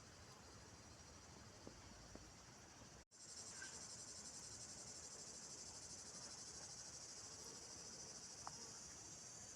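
Insects trilling in a steady, high, faint chorus. A brief dropout about three seconds in, after which the trilling comes back louder.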